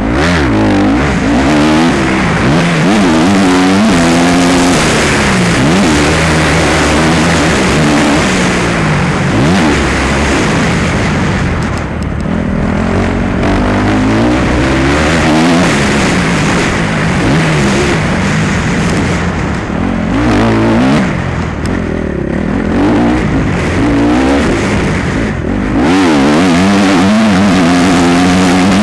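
Motocross bike engine at full race effort, its pitch climbing and dropping again and again every second or two as the throttle is opened and closed.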